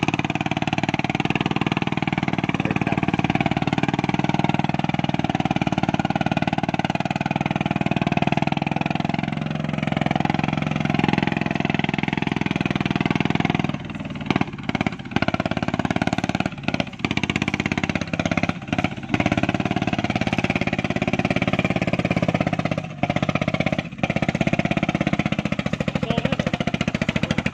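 Rot e-taen farm truck's engine running steadily while hauling a heavy load of sugarcane, with a few brief dips in level about halfway through.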